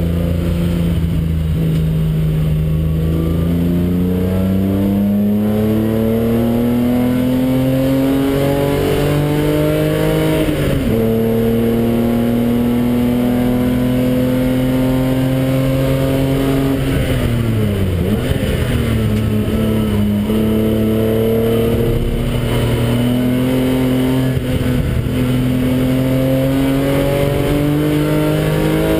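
BMW engine heard from inside the car at full throttle on a race track: the note climbs steadily, drops sharply at an upshift about ten seconds in, holds nearly steady, then falls away under braking and downshifting about two-thirds through before climbing hard again to another upshift at the end.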